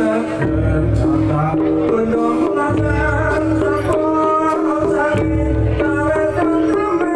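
Javanese jaranan-style ensemble music, with kendang drum strokes played in jaipong fashion over sustained melodic lines and recurring heavy bass pulses.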